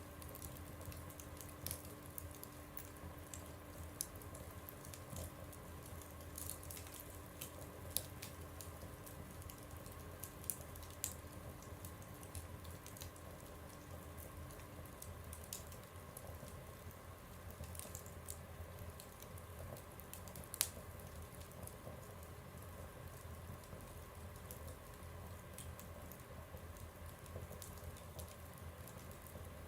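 Wood fire burning in a stove, crackling with irregular small pops and a few sharper snaps, the loudest about two-thirds of the way through.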